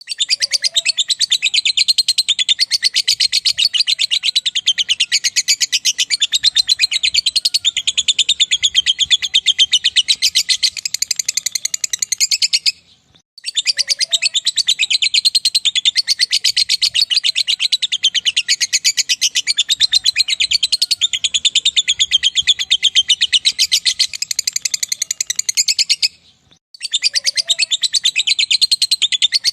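Lovebird singing its long 'ngekek' song: a rapid, unbroken, high-pitched chattering trill held for about thirteen seconds at a time, with brief pauses about halfway through and near the end.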